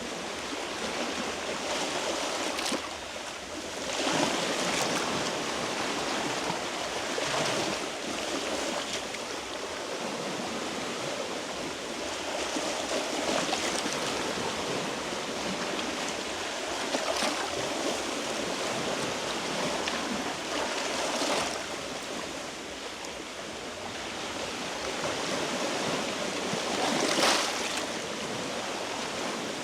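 Small sea waves washing against shore rocks, a steady wash with a louder surge every few seconds.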